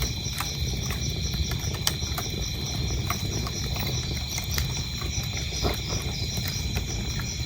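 Wood fire crackling: a low steady rumble with scattered sharp pops. Crickets chirp in a fast, even rhythm over a steady high trill.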